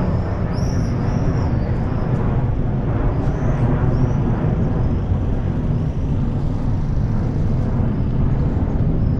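Outdoor street ambience: a steady low rumble of traffic noise, with short high chirps repeating in the first few seconds.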